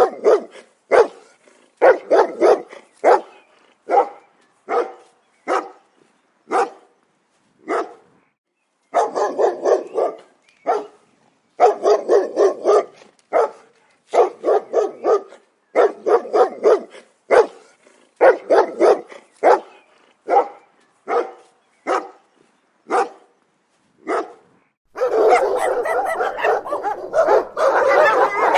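Dogs barking angrily in short rapid volleys with brief pauses between them. Near the end the barking turns dense and continuous.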